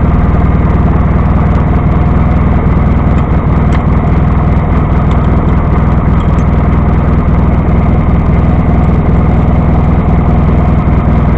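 John Deere 318 lawn tractor's engine running steadily at the back of the tractor, a loud, even, low-pitched drone.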